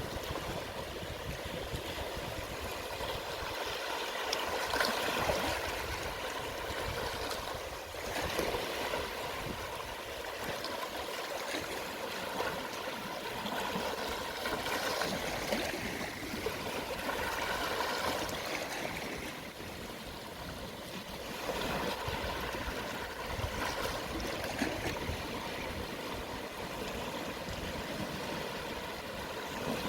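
Calm sea waves washing ashore at low tide: a steady wash of water that swells and eases every three to four seconds.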